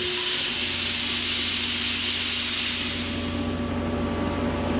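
Ingersoll Rand UP6-10 TAS 10 hp rotary screw air compressor running just after start-up: a steady hum with an airy hiss that eases about three seconds in. Really quiet for a compressor, inside its sound enclosure.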